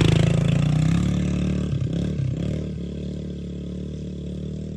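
Yamaha TT-R110 dirt bike's small four-stroke single-cylinder engine revving as the bike pulls away, growing steadily fainter as it moves off, with a brief dip and rise in pitch about two seconds in.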